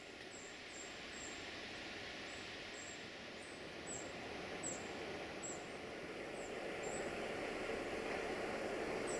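Rumble of an approaching freight train hauled by an Electroputere LDE2100 (060-DA) diesel-electric locomotive, growing steadily louder, with small high chirps repeating about twice a second over the first seven seconds.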